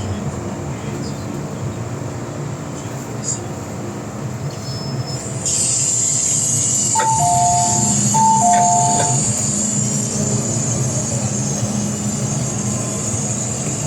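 MTR M-Train electric metro train running, with a steady rumble. About five seconds in a loud hiss comes in and stays, and a falling two-note chime sounds twice.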